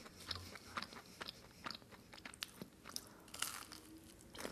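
Close-up crunching of a churro being bitten and chewed: faint, irregular crisp crunches.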